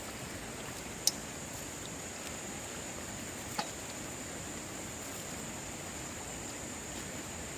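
Steady rush of a flooding stream with a constant high-pitched hiss over it, broken by two sharp clicks, about a second in and again a few seconds later.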